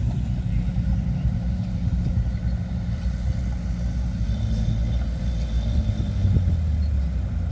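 Diesel engine of heavy earthmoving machinery running steadily, its sound mostly low-pitched.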